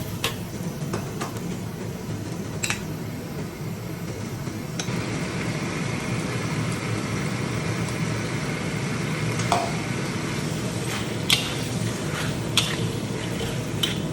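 Onions and whole spices frying in oil in a pan, stirred with a utensil that clinks against the pan a handful of times. The sizzle grows brighter about five seconds in.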